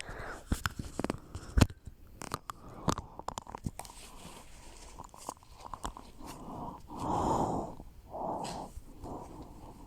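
Handling noise from packing a bag: sharp clicks and knocks in the first few seconds, then several short rustling swells.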